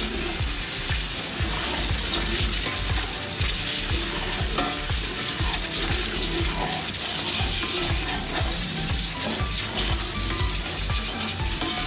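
Nihari spice masala sizzling in a pot with a splash of water added to keep it from burning, stirred steadily: a constant high sizzle with repeated stirring and scraping strokes.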